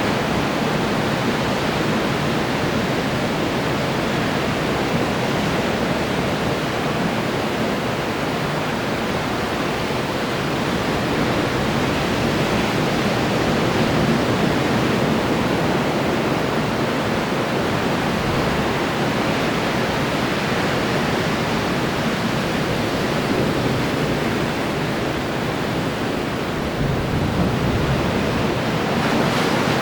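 Ocean surf breaking and washing in as a continuous roar, swelling gently in waves of level, with a slightly stronger surge near the end.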